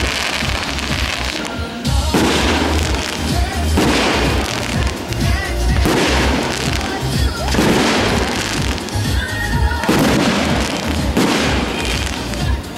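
Aerial fireworks bursting in the sky, a new burst about every two seconds, each dying away over a second or so, over music with a heavy bass.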